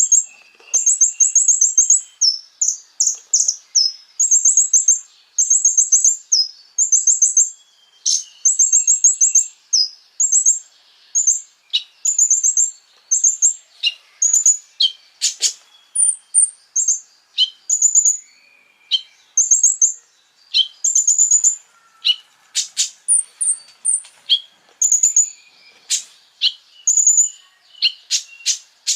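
Konin bird singing: short, very high, rapid trilled phrases repeated about once a second, with sharp high chip notes between them in the second half.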